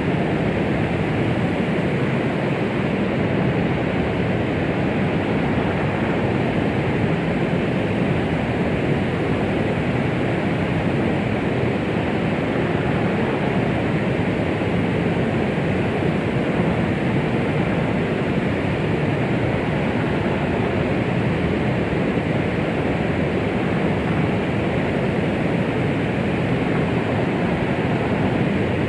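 Continuous white noise, an even, deep rushing hiss with most of its weight in the low and middle range, unchanging throughout, played as a womb-like sound to soothe a baby.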